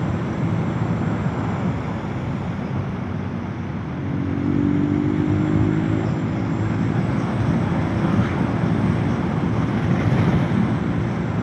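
Motorcycle on the move: a steady engine and road-wind rumble, with the engine note coming through louder about four seconds in.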